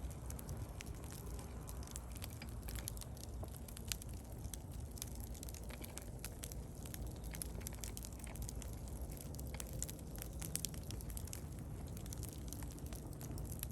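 Wood fire burning, with irregular crackles and pops over a steady low rumble.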